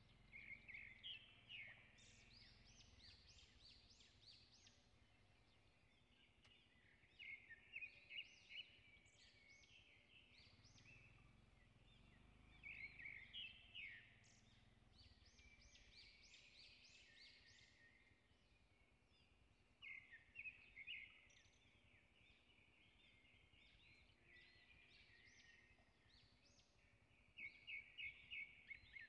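A bird singing in repeated bouts of rapid, high notes, one bout about every six or seven seconds, over a faint background hiss.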